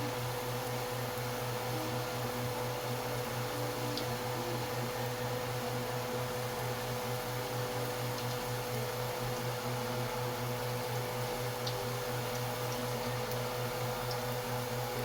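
Steady low mechanical hum of a running kitchen appliance motor, with a constant higher tone and an even hiss over it, and a few faint ticks.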